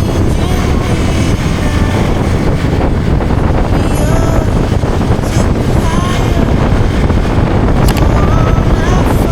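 Wind buffeting the microphone on a moving Hero Xpulse 200 4V motorcycle, with its single-cylinder engine running steadily underneath. A few faint short chirps come through in the middle and near the end.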